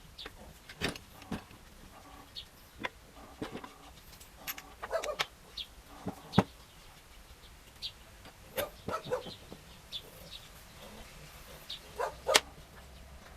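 Irregular metallic clinks and knocks of tools and small engine parts being handled as an NSU Maxi 175 motorcycle engine is taken apart, the loudest knocks about a second in, halfway through and near the end. Short high chirps of a bird sound in the background between them.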